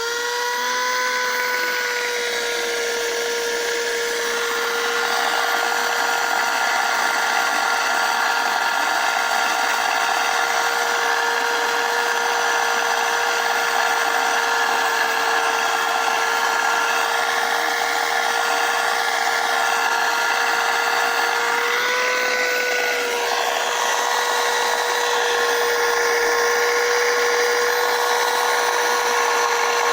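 Corded stick vacuum cleaner motor spinning up and then running with a steady whine over rushing air. About 22 seconds in, its pitch lifts briefly and the air sound changes.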